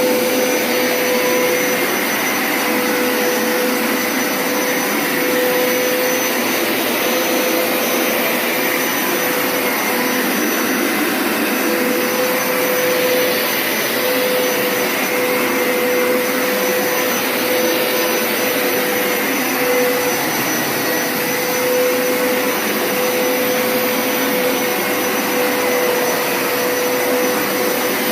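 Hoover Power Scrub Deluxe FH50150 carpet washer running steadily on its wash setting, its suction motor giving a constant whine over a loud rushing noise, with the handle trigger pressed so it sprays cleaning solution during the pass.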